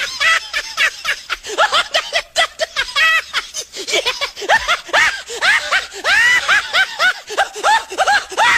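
High-pitched laughter: a rapid, continuous string of short giggling and snickering calls, each one rising and falling in pitch.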